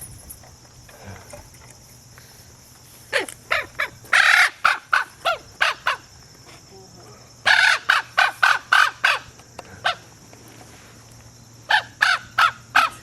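Common raven calling: three runs of short, loud calls, about three a second, with brief pauses between the runs.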